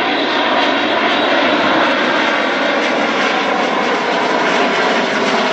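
Jet noise from a Eurofighter Typhoon's two Eurojet EJ200 turbofan engines, a loud, steady rushing sound as the fighter flies its display.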